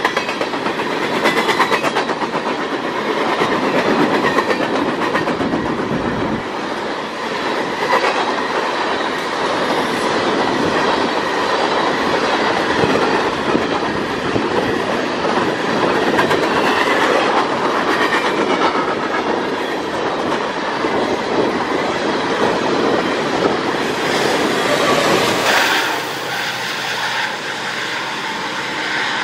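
Coal train's gondola cars rolling past at close range, steel wheels clicking over the rail joints in a steady clickety-clack. About 26 seconds in the noise drops a little as the end of the train moves away.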